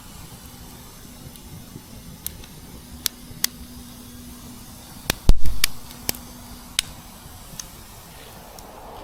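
A few sharp clicks or snaps spaced out over several seconds, and one loud, dull thump a little past the middle, over a faint steady hum.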